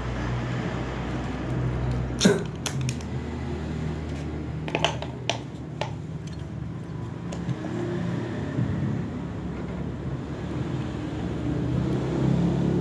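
Sharp clicks and knocks of metal parts from an electric water pump being handled and fitted together during assembly, over a steady low hum. The loudest knock comes about two seconds in, and a cluster follows around five seconds.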